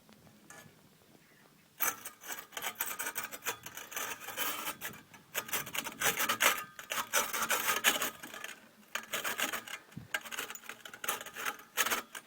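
Defective catalytic converter from a Renault Grand Espace IV, its loose insides rattling and scraping in irregular bursts starting about two seconds in: the sign of a broken-up catalyst core.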